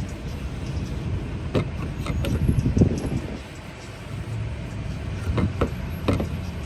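A few sharp clicks and rustles from handling a bottle of rubbing alcohol and a cloth while wiping down a surface, over a steady low rumble.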